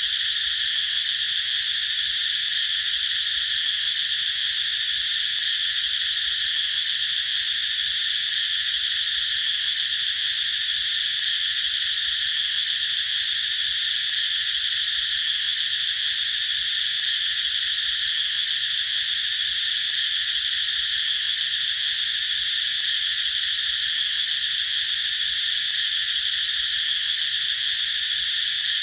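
Cicadas singing in a dense, steady chorus: a high-pitched buzz that holds level without pauses or changes.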